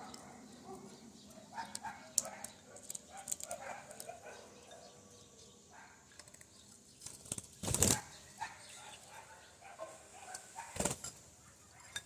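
Small pet parrots eating sunflower seeds: scattered sharp clicks of seeds being cracked, mixed with soft short chirps. Two brief louder bursts come a little past the middle and near the end.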